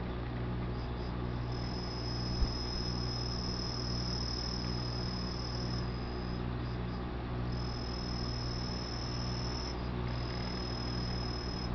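High, steady insect trilling in two long stretches, over a steady low hum with a regular pulsing beat. A single sharp knock about two seconds in.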